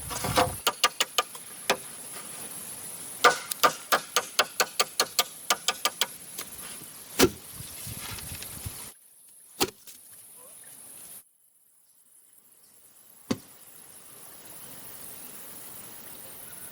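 Hand tools striking bamboo: quick runs of light chopping blows, several a second, with single sharp knocks in between, over a steady high insect drone. The sound drops away abruptly twice.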